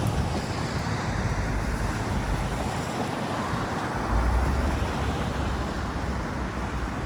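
Downtown street ambience: a steady wash of traffic noise, with a low vehicle rumble swelling about four seconds in as a vehicle passes.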